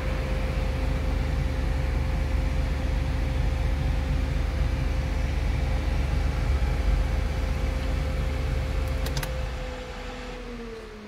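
Renault Twingo driving: a steady low road-and-engine rumble with a thin steady whine. About ten seconds in, the whine falls in pitch and the noise dies down as the car slows.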